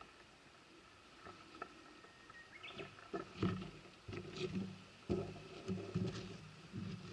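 Mountain river babbling faintly, with irregular low rumbles and a few knocks over it from about three seconds in.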